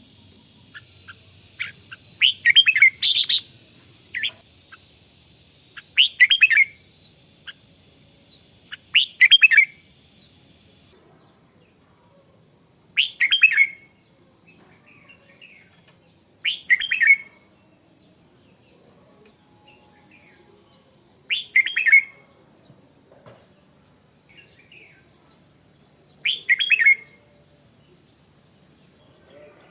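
Red-whiskered bulbul singing short, bright phrases of under a second, one every three to five seconds, about seven in all. A steady high thin whine runs underneath and shifts slightly in pitch about eleven seconds in.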